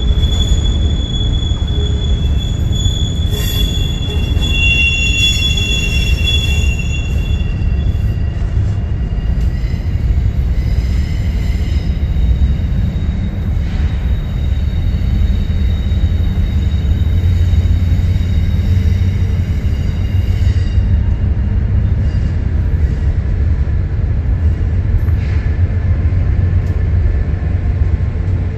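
Double-stack intermodal freight train rolling by with a steady low rumble. High-pitched wheel squeal runs over the first several seconds, then fades out.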